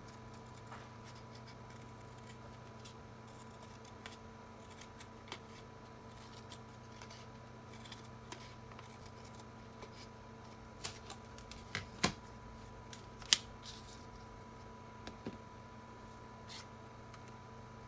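Scattered small clicks and snips of close handwork on aluminium foil, with two sharper snaps about twelve and thirteen seconds in, over a steady electrical hum.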